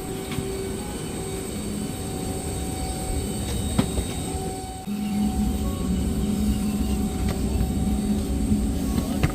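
Steady background hum inside the cabin of a Boeing 717-200. About five seconds in it steps up to a louder, deeper rumble with a steady low tone. There is a single click a little before that.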